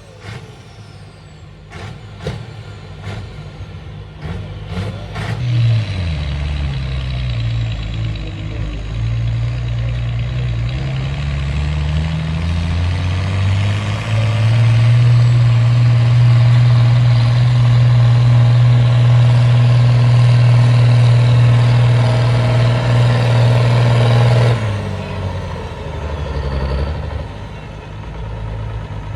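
Tractor-pulling tractor engine under load: a few sharp clicks, then the engine revs up and down before being held flat out at high revs for about ten seconds, and is throttled off abruptly near the end.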